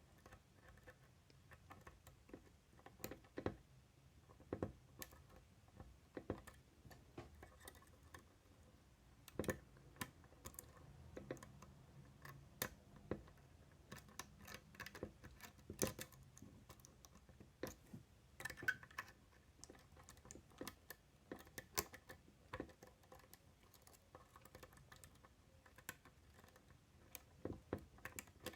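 Faint, irregular small metallic clicks and light scraping of a lock pick working the wafers inside a Miwa DS wafer lock.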